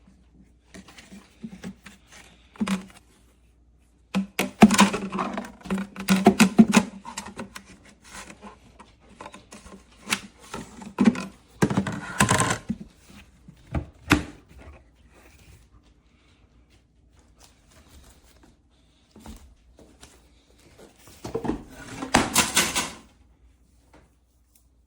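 Handling noise: scattered knocks, clicks and clattering in a small room, coming in several bursts with quieter stretches between.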